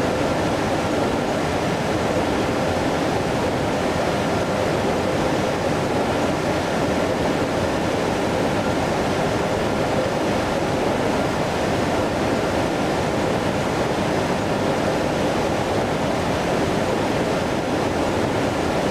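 Steady jet airliner noise: an even rush with a faint steady hum and no rise or fall.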